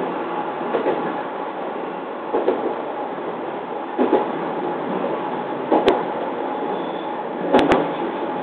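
Running noise of a JR East 209 series electric train heard from the cab: a steady rumble with the wheels knocking over rail joints about every one and a half to two seconds. There are a couple of sharp clicks near the end.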